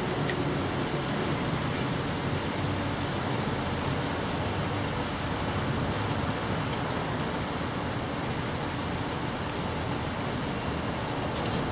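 Steady rain falling, an even hiss with a few faint, scattered drop ticks.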